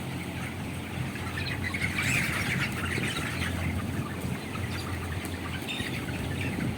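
A large flock of young broiler chickens chirping and squawking all together, over a steady low machine hum.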